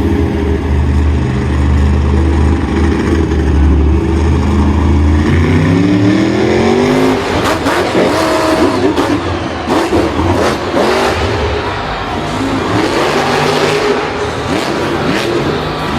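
Vehicle engine running and revving: its pitch climbs about five seconds in, then gives way to rougher engine sound mixed with a run of knocks and clatter.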